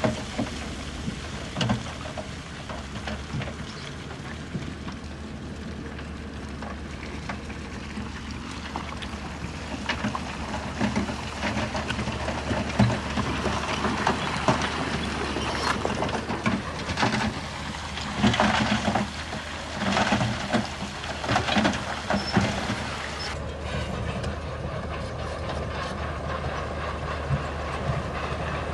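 Bulldozer's diesel engine running steadily under the irregular clanking and squeaking of its steel tracks, busiest in the middle. The sound changes abruptly about 23 seconds in.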